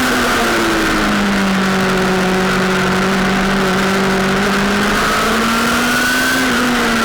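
Sportbike engine running hard under acceleration: its pitch drops about a second in, climbs slowly, then drops again near the end, as with gear changes. A steady rush of wind noise runs beneath it.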